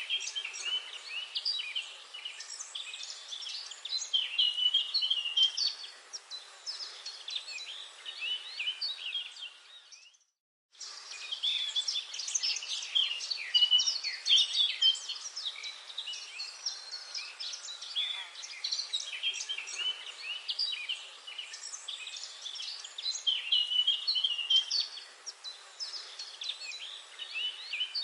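Forest bird chorus: many birds chirping and singing over one another in quick, overlapping calls. The sound cuts out briefly about ten seconds in, then resumes.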